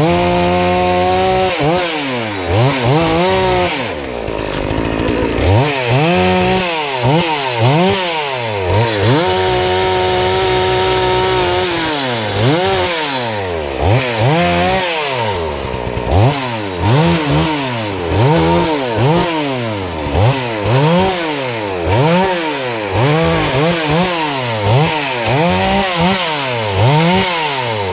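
FarmMac F380W 72cc two-stroke chainsaw with a 28-inch bar, revving up and down over and over as it cuts, its pitch rising and falling about once a second, with a couple of longer stretches held at high revs. The saw is running well.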